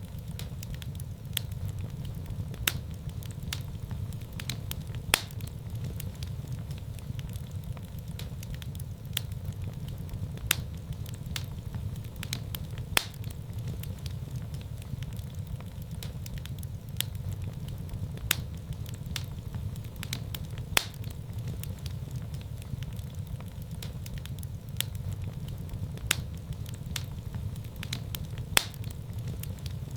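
Fire burning in a fireplace: a steady low rumble of flames with irregular sharp crackles and pops every second or so, a few of them louder snaps.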